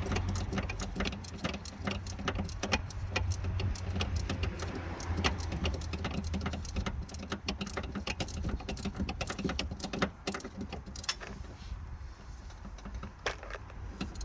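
Metal tools and parts clinking and rattling in irregular sharp knocks while hands work on the engine, over a steady low hum.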